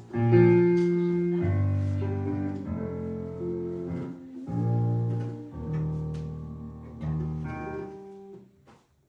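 Piano chords played slowly one after another, each left to ring and fade, with the playing dying away near the end.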